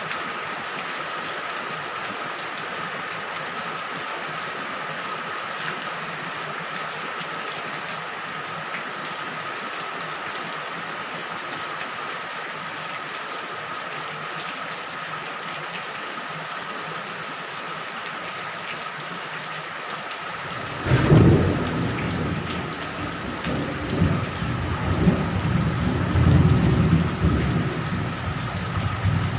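Steady rain falling. About two-thirds of the way in, a sudden loud clap of thunder breaks in and goes on as a deep, rolling rumble that swells and fades.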